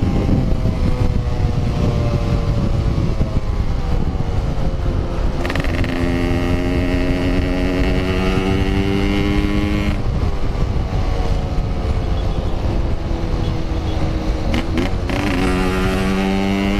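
Yamaha RX-King two-stroke motorcycle engine running under way, its pitch sinking as it slows, then rising and holding, with sudden steps at gear changes about five seconds in, ten seconds in, and near the end. Low wind rumble on the microphone runs underneath.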